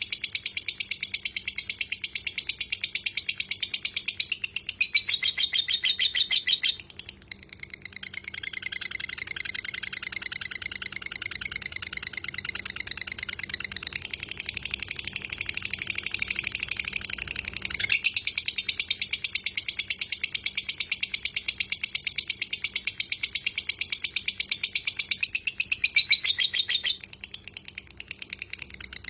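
Lovebird giving its 'ngekek': a long, very rapid, high-pitched chattering trill held for many seconds at a time, broken briefly about five seconds in and again near the end.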